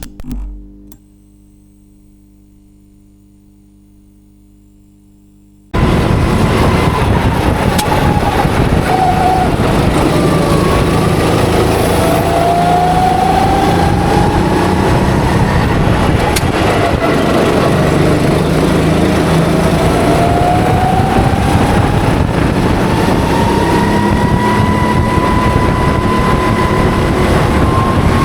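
A quiet, steady low hum, then about six seconds in a go-kart engine cuts in loud and runs under heavy wind noise. The engine pitch climbs on the straights and drops off into the corners, several times over.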